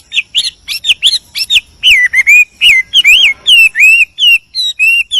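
A male Chinese hwamei (Garrulax canorus) singing loudly: a fast, varied run of clear whistled notes that sweep up and down. Near the end it settles into repeating one short whistled note about three times a second.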